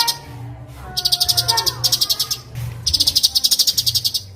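Three bursts of a fast, high pulsed trill like a cricket's, with short gliding whistled bird notes between them and a low steady hum underneath.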